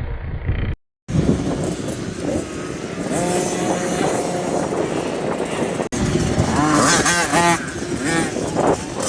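Motocross bikes running on a dirt track, their engines revving so the pitch climbs and falls repeatedly in the second half. The sound drops out briefly about a second in and cuts again near the middle.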